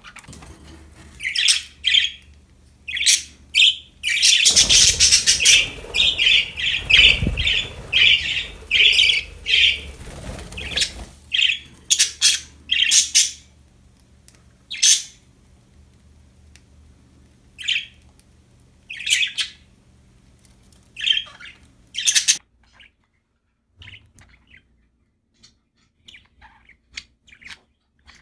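Budgerigars chirping and squawking: a dense run of rapid calls over a low rumbling noise in the first half, then scattered single chirps. A faint steady hum beneath them cuts out near the end.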